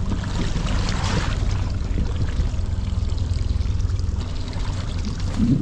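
Water splashing and trickling, loudest in the first second or so, over a steady low rumble.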